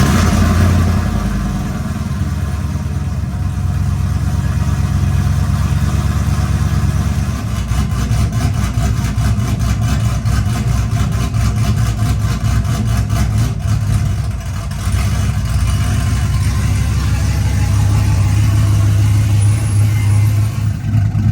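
Cammed 5.3-litre V8 of a 2006 GMC Sierra, just fired up and idling with its exhaust open straight after the Y-pipe, with no mufflers. It has a hollow, drony, pulsing note that grows a little louder in the last few seconds.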